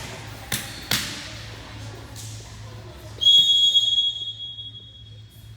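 Two sharp hits of a volleyball, then a referee's whistle blown once: a single high, steady blast lasting about a second that fades away in the gym.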